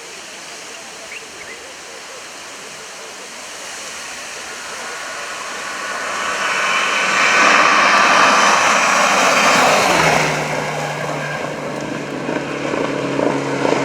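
Rally car approaching at speed: its engine and road noise build for several seconds and are loudest about seven to ten seconds in, then settle into a steady engine note as it goes by.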